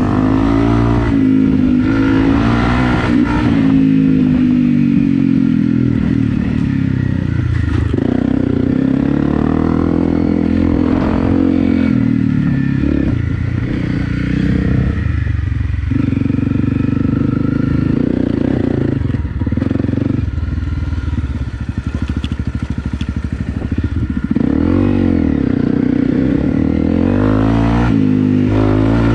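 Honda CRF250 Rally's single-cylinder engine working under load while riding off-road, its pitch rising and falling again and again as the throttle is opened and closed, and easing off briefly about two-thirds of the way through.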